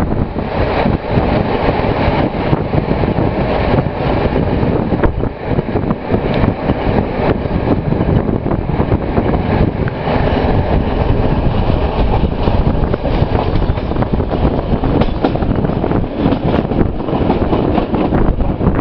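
Passenger train rolling on the rails, heard from on board: a steady rumble of wheels on track with many short clicks and knocks, and wind buffeting the microphone.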